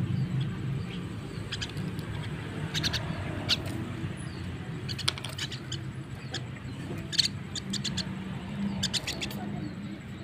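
Javan myna giving short, sharp chirping calls in quick clusters of two to four, over a low steady hum.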